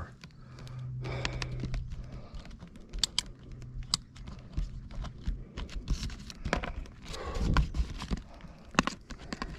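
Rustling and scattered sharp clicks of gear being handled close to the microphone, with a low steady hum in the first half.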